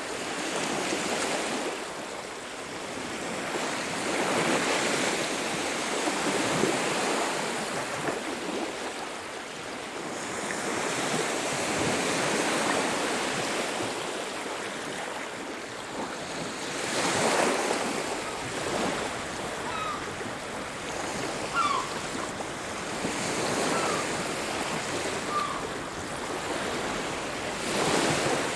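Ocean surf on a beach, waves swelling and washing in every several seconds. A few faint short bird calls come in over the surf in the second half.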